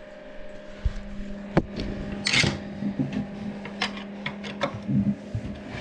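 Hand-tool work on a wooden batten and a toilet pan: a sharp click, a short scrape, then scattered small clicks and knocks over a steady low hum.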